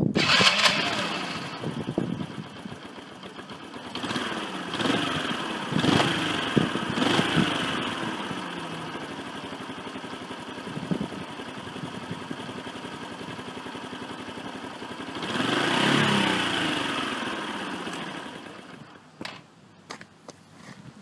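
Honda Super Cub 50's small single-cylinder four-stroke engine running through an aftermarket muffler, blipped up in short revs several times and once held up longer, settling back to idle between, then dying away near the end. The exhaust note is a little loud for a Cub.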